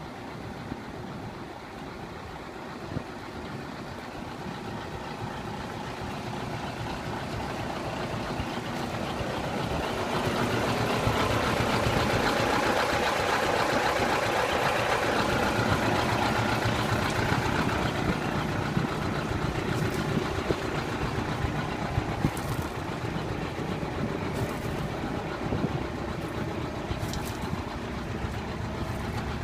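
Nissan Diesel Big Thumb truck's V8 diesel engine idling steadily, growing louder over the first ten seconds or so, then easing off slightly.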